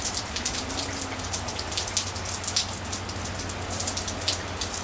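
Light rain falling steadily, with many separate drops ticking close by against the general hiss of the shower.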